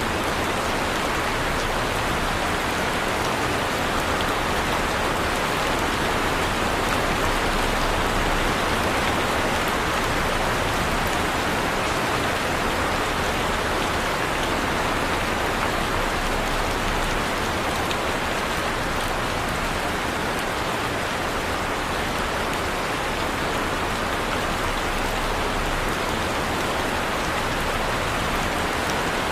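Heavy rain falling steadily, an even hiss of rain on a surface with no let-up.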